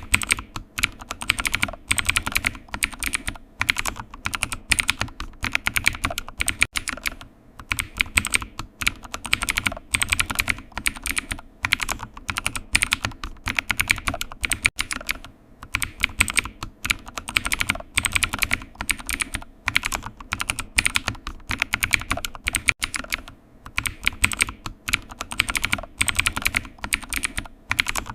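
Computer keyboard typing: quick, uneven runs of keystrokes with short pauses between bursts.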